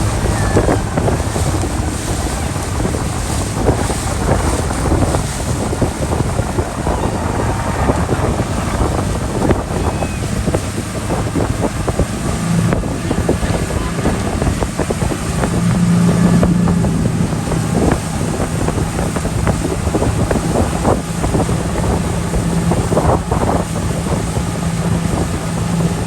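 Speedboat engine running steadily under way, with wind buffeting the microphone and water rushing past the hull.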